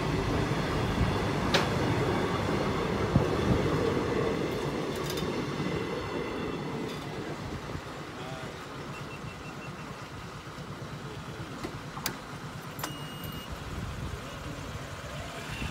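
The tail of a train (a flat wagon and a coach) rolling along the track and away, the rumble of its wheels fading steadily, with a few sharp clicks along the way.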